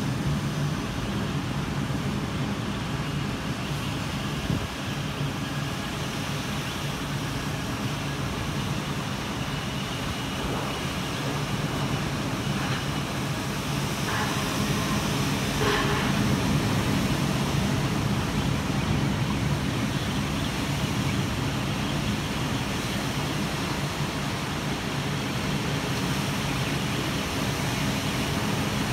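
Heavy rain pouring steadily, heard from indoors through a window, with a continuous low rumble underneath.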